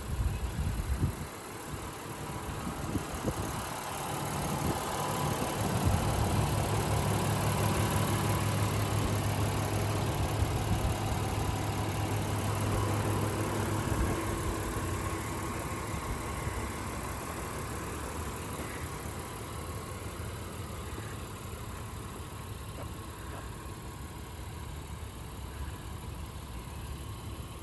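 2020 Honda Ridgeline's 3.5-liter V6 engine idling, with a few knocks in the first couple of seconds. The steady hum runs louder for about ten seconds, then settles to a quieter idle.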